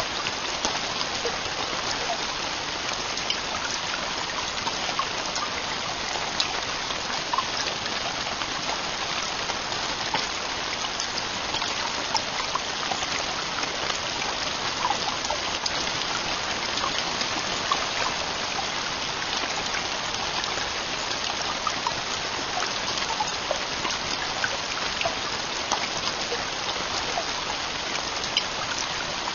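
Heavy rain falling steadily, a dense even hiss dotted with many separate drop hits.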